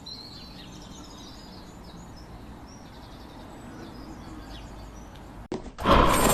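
Faint birdsong: many short chirps over a low, steady background rumble. Near the end the sound cuts briefly, then a sudden loud rush of noise starts.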